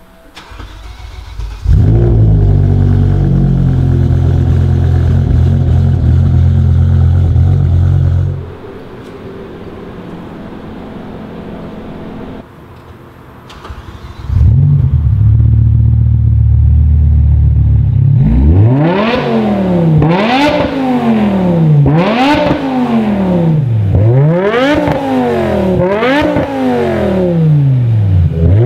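BMW E60 M5's S85 V10 through an RPI exhaust: started with a brief starter whir, catching with a loud flare about two seconds in and settling to a quieter idle near the eight-second mark. After a break it is warm-started with another loud flare, then blipped through a series of sharp free revs, pitch rising and falling with each one.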